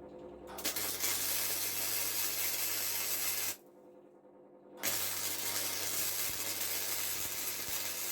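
Two long bursts of steady hissing, about three seconds each with a short pause between, each carrying a low hum underneath.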